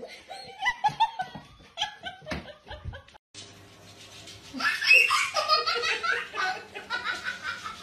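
People laughing: a run of laughter, a brief break, then louder laughter from about four and a half seconds in.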